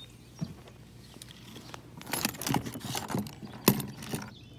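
Irregular rattling knocks and rustling as a bass is handled and flops on a measuring board, with one sharp knock near the end.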